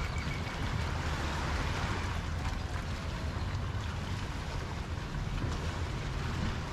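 Steady wash of small waves in a harbor, with wind rumbling on the microphone.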